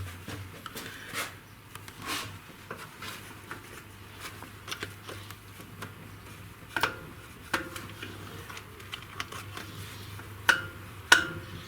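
Scattered clinks and taps of steel hand tools being handled against metal engine parts, a few of them with a short ring, over a steady low hum.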